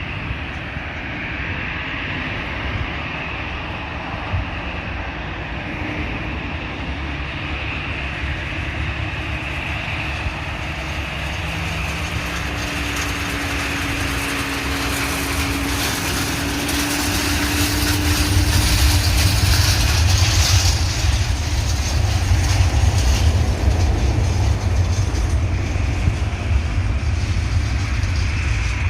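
Jet airliner engines, the sound swelling steadily as the aircraft draws near. A deep rumble sets in about two-thirds of the way through, and a hiss peaks around then and stays loud.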